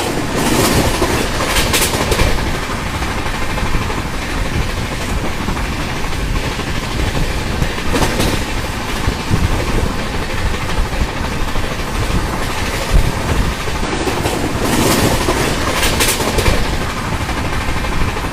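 Express passenger train running fast, a steady rumble of coach bogies and wheels on the rails with sharp clacks over rail joints a few times.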